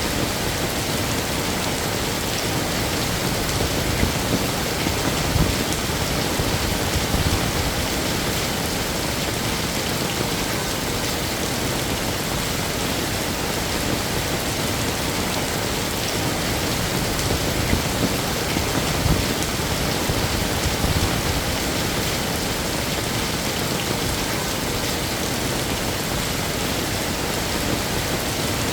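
Heavy rain falling steadily in a dense, even hiss, with louder heavy drops now and then, above all a few seconds in and again past the middle.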